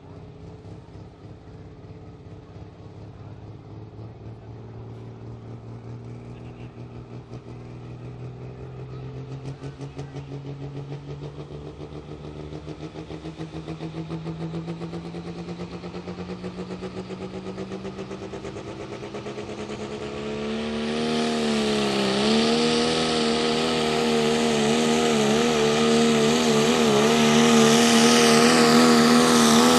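Turbo-diesel pickup truck engine in a truck pull: its pitch climbs slowly for about twenty seconds, then at about twenty seconds it goes much louder with a hissing turbo roar and holds high revs with a wavering pitch under full load as the truck drags the sled.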